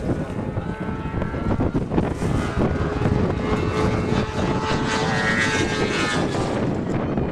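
Propeller aircraft engine droning, a steady hum that is clearest in the middle and fades near the end.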